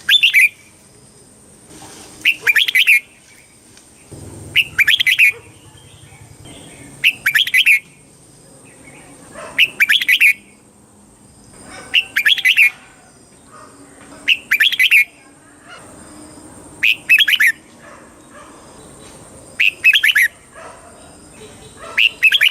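Red-whiskered bulbul singing short, quick warbled phrases, one about every two and a half seconds.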